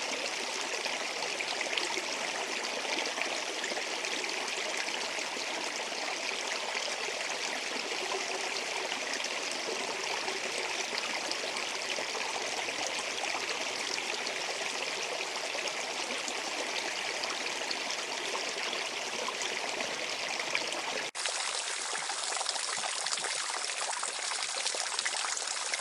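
Waterfall, water falling and splashing steadily, with a brief dip in level about 21 seconds in.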